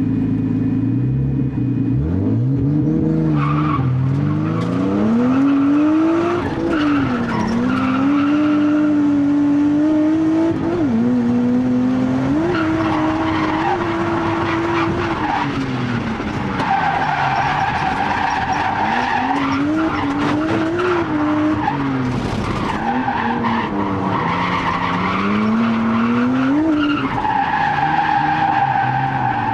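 Nissan Skyline R32's RB20DET turbocharged straight-six engine revving up and down repeatedly through a drift, with tyres squealing in long stretches as the car slides. The engine note climbs from a steady level about two seconds in.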